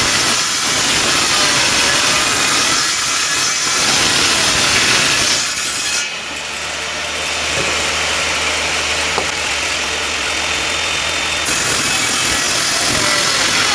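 Electric woodworking power tool working wood, a loud steady noise. About six seconds in it drops to a softer running sound with a low hum, and the louder noise comes back near the end.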